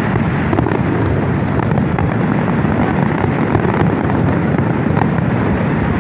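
Large fireworks display going off without a break: a dense, steady rumble of bursts with many sharp crackles and pops scattered through it.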